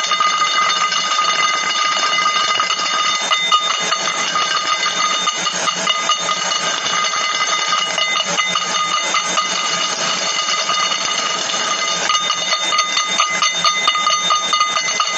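Rapid, dense clicking without a break, over a steady high ringing tone.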